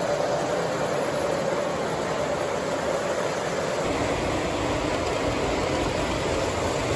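O scale model train running on its track: a steady whir and rumble of motor and wheels on rail, with a deeper rumble joining about four seconds in.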